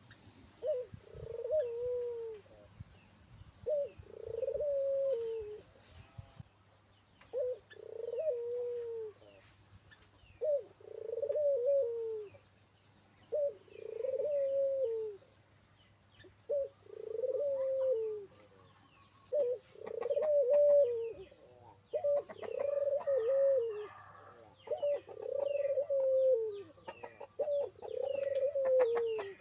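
Puter (ringneck dove) cooing over and over, about ten coos roughly three seconds apart, each a short note followed by a longer drawn-out coo. Faint chirps of other small birds sound in the background.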